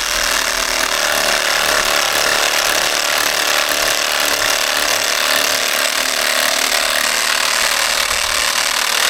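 Reciprocating saw with a 12-inch pruning blade running steadily as it cuts lengthwise through a segment of banana pseudo-stem, then stopping abruptly at the end.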